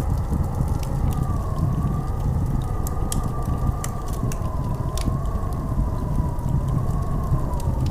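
Howling blizzard wind: a deep steady rumble with a thin whistle that slowly wavers up and down in pitch, and scattered sharp ticks.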